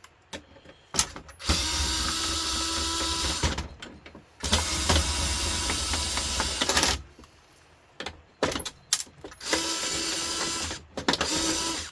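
A power drill-driver running in three bursts of two to three seconds each, with short pauses and small clicks between them, as it tries to turn out a security screw.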